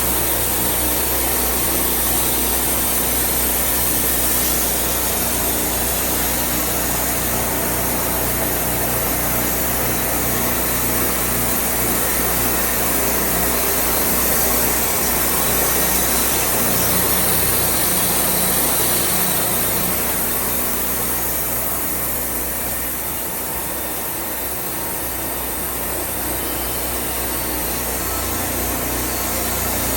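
Wood-Mizer portable band sawmill running steadily, its engine and band blade working through the cedar, dipping a little in level about two-thirds of the way through.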